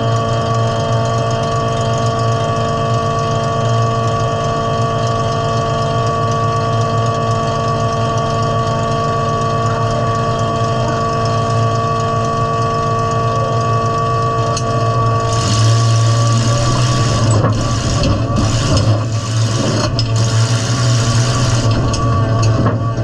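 Demolition derby car's engine idling steadily, heard from inside the stripped cab; about two-thirds of the way in it gets louder and rougher as the car drives off.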